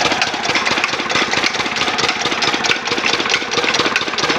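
Engine running steadily at idle with a rapid, even knocking beat of about nine or ten strokes a second.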